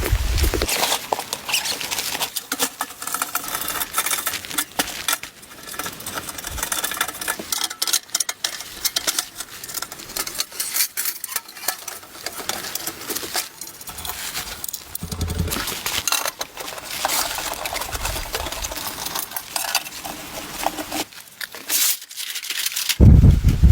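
Continuous rustling with many small irregular clicks and taps, like objects being handled and set down.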